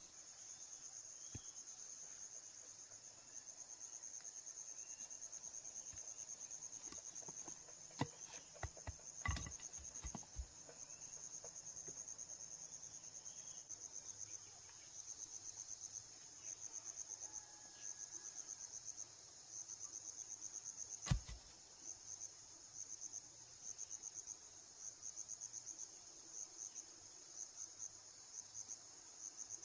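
Forest insects, crickets or similar, trilling in a high, fast pulsing chirp over a steady higher whine; from about halfway the trill breaks into short repeated runs. A few knocks or clicks come around eight to ten seconds in, and one sharp crack about 21 seconds in is the loudest sound.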